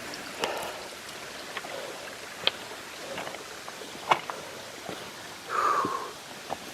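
Creek water trickling steadily, with scattered irregular clicks and knocks and a brief louder rustle about five and a half seconds in.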